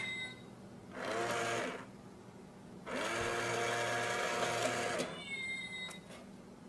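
A small electric motor running briefly twice: a short burst about a second in, then a longer run of about two seconds, each spinning up and winding down. A few light clicks and short high chirps follow near the end.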